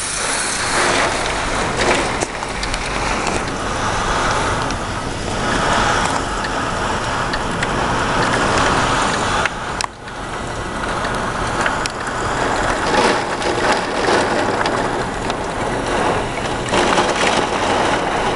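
Heavy rain driven by strong thunderstorm wind, a steady rushing noise that swells and eases, with a few sharp clicks.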